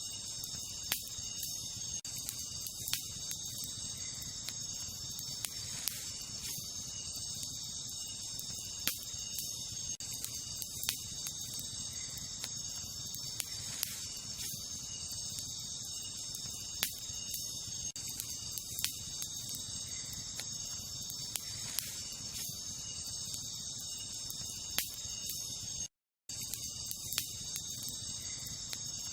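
Wood campfire crackling with scattered sharp pops, over a steady chorus of crickets. The sound cuts out completely for a moment near the end.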